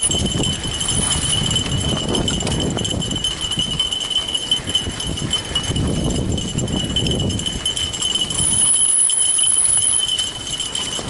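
Fat bike rolling along a woodland trail while towed by dogs on lines, with the dogs' running footfalls and rumbling trail noise that swells and fades, over a steady high whine.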